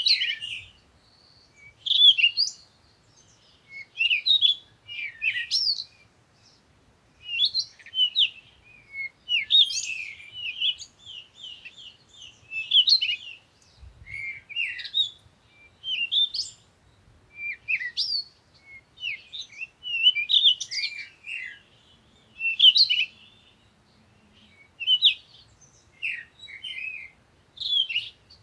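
Songbirds chirping and singing in short, quick phrases that repeat every second or two.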